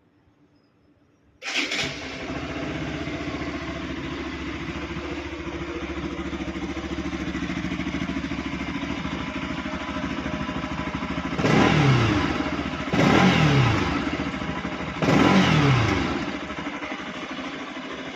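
Bajaj Pulsar RS 200's single-cylinder engine starting about a second and a half in and settling into a steady idle through the stock exhaust. Near the end it is revved three times in quick blips, each dropping back to idle.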